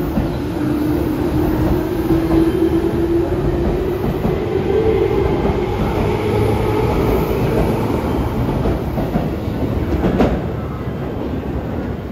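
Tobu 10050 series electric train, two coupled sets, pulling out and accelerating past. The traction motor whine rises steadily in pitch over the first five seconds or so, over a continuous wheel rumble and clatter on the rails. A sharp knock comes about ten seconds in.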